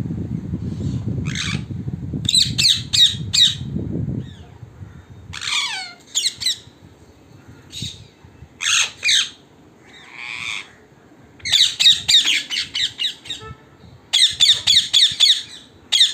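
Wild parrots calling: repeated short, harsh screeching squawks, coming in quick runs about two-thirds of the way through and again near the end. A low rumble lies under the first few seconds.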